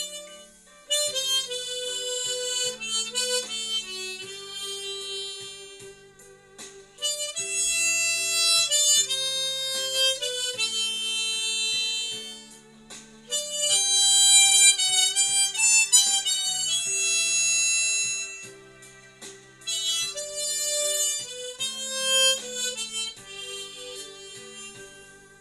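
G-key harmonica playing a slow melody in held notes, phrase by phrase, with short breaths between phrases.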